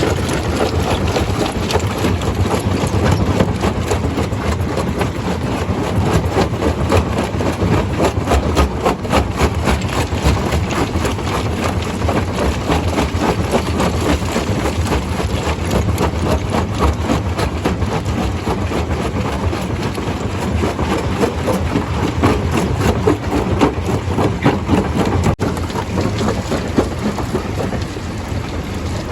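Stone crusher running under load: a steady low rumble of machinery with a dense, continuous clatter of rock being broken and tumbling through it.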